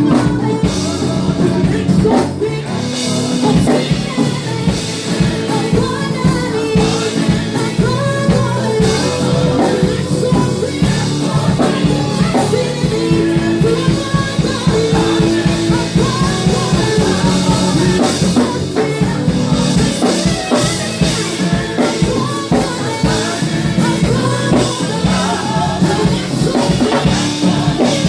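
Live gospel praise and worship music: a band with drum kit playing and voices singing.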